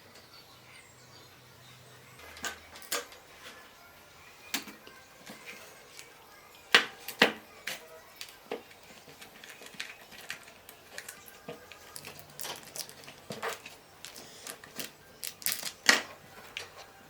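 Irregular sharp clicks and knocks of small hard parts being handled and tapped together. A pair of louder knocks comes about seven seconds in, and a quick cluster near the end.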